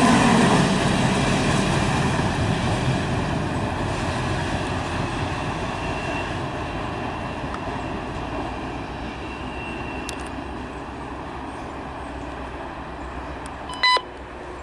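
CSX intermodal freight train rolling past, the rumble of wheels and cars fading steadily as the train moves away. Near the end a scanner radio gives a short tone burst.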